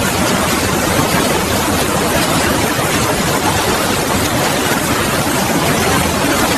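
Steady, loud hiss spread evenly from low to high pitch, with no rhythm, tone or break.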